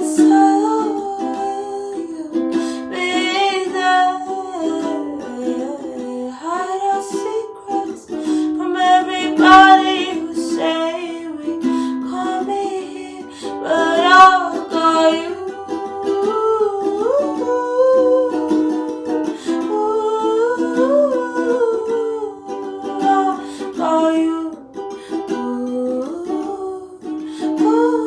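Ukulele playing a soft, steady chord accompaniment, with a wordless vocal line of a few long held notes with vibrato over it.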